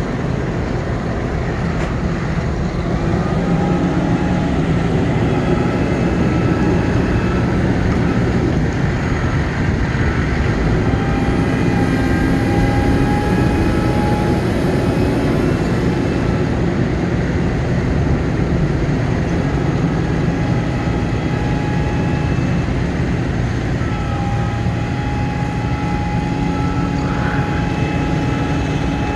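Ford F-750 bucket truck's engine running steadily. Thin whining tones come and go over it from the Altec boom's hydraulics as the boom is worked.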